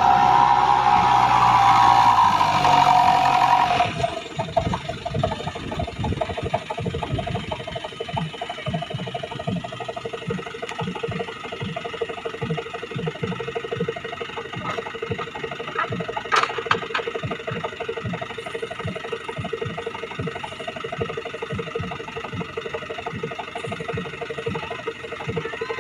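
A fully loaded Isuzu dump truck's diesel engine runs loud and high for about four seconds, then drops suddenly to a steady idle with an even, rhythmic clatter.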